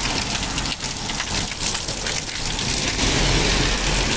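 Steady rain falling, a dense patter of many close drop hits over an even hiss.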